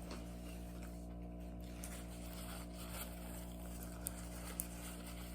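Steady low mechanical hum made of several fixed tones, with two short clicks about four and four-and-a-half seconds in.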